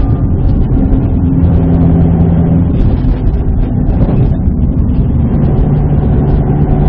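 Subaru WRX STI's EJ20 turbocharged flat-four engine running steadily under way, heard from inside the cabin together with tyre and road noise. The engine note dips a little about four seconds in.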